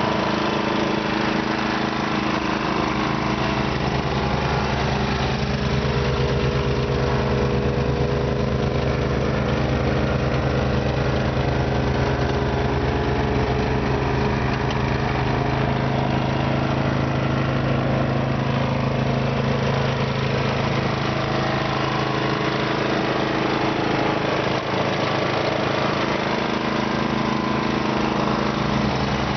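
Simplicity snow blower's engine running steadily.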